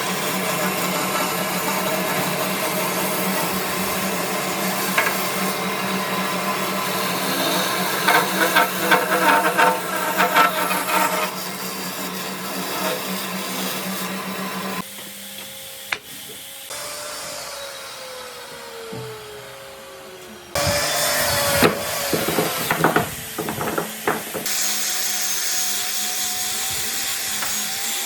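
Electric woodworking power tools working wood in a run of short clips: a motor runs steadily with rasping cutting noise, then a quieter stretch in which a tone slowly falls, then more tool noise with sharp knocks.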